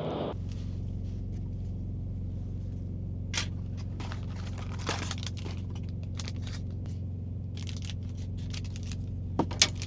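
Steady low hum of an idling truck engine heard inside the cab, with a few crinkles and clicks of something being handled, the sharpest two near the end.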